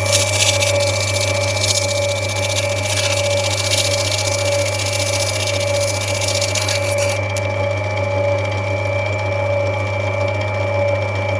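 Lapidary grinding wheel running with a steady motor hum while an opal is held lightly against it and rubbed back, a hiss of stone on the wheel lasting about seven seconds; then the stone comes off and only the machine's hum goes on.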